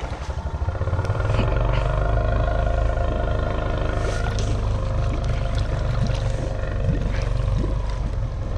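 Honda Rancher 420 ATV's single-cylinder four-stroke engine pulling through deep creek water. It revs up about a second in, then runs steadily under load.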